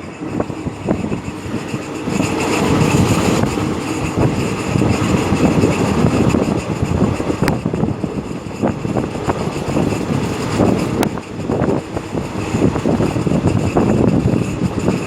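Train running on rails: a steady loud rumble of wheels and cars, with a few sharp clicks.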